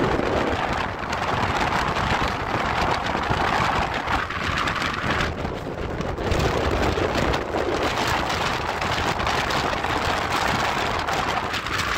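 Steady rush of wind and running noise from the moving Vande Bharat Express train.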